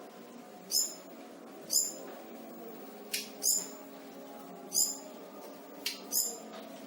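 Selendang biru songbird giving short, sharp, very high chirps, about one a second and sometimes two in quick succession, over a steady low background hum.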